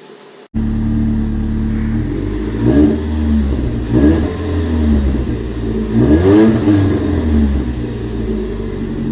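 2006 Chevy HHR's 2.4L Ecotec inline-four running through a long-tube header, catless downpipe and Cherry Bomb chamber muffler. It idles steadily, with three quick throttle blips that rise and fall in pitch. The engine sound comes in abruptly about half a second in, after a quieter start.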